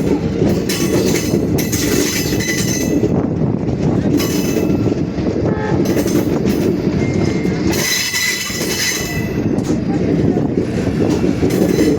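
A train running past with a steady heavy rumble of wheels on the rails. High metal-on-metal wheel squeals cut in several times, the loudest about eight seconds in.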